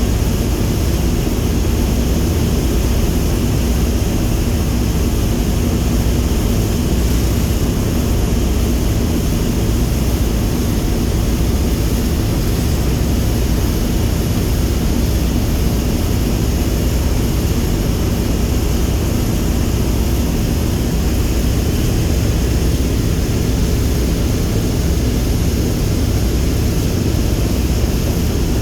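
Boeing B-17G Flying Fortress's four Wright R-1820 Cyclone radial engines running steadily, a loud, even propeller-aircraft drone.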